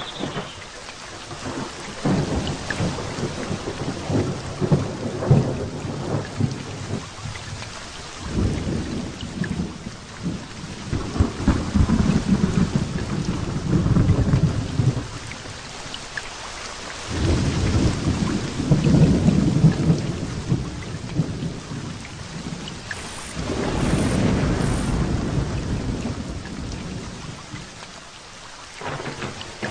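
Thunderstorm with heavy rain falling steadily, while thunder rolls in again and again: four long low rumbles that swell and fade.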